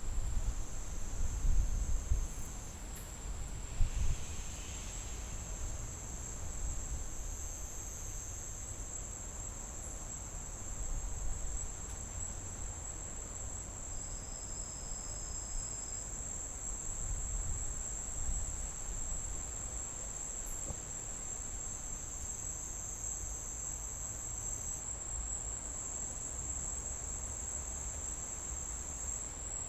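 Insect chorus: a steady, continuous high-pitched trill, over a low rumble with a few soft thumps in the first few seconds.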